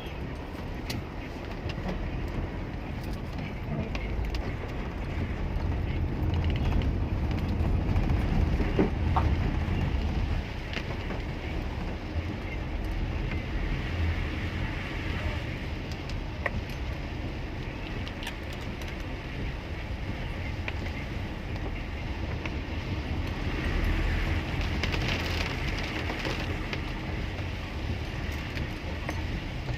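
Car driving through heavy rain, heard from inside the cabin: a steady low engine and road rumble with a hiss of rain and wet-road spray that swells about halfway through and again near the end.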